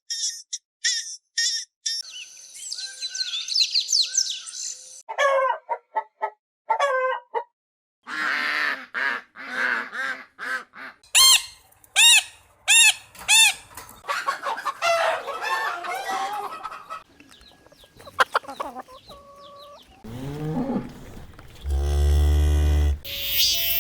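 Chickens clucking and calling in a string of short back-to-back recordings, with high-pitched pips in the first few seconds and a run of sharp repeated calls about halfway through. A deeper, louder animal call comes near the end.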